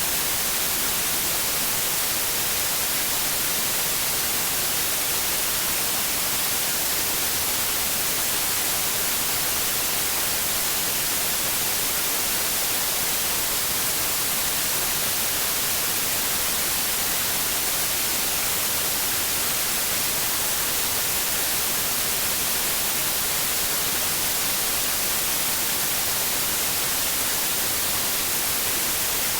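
Steady synthetic white noise: an even hiss with no changes, played as a sleep aid for babies.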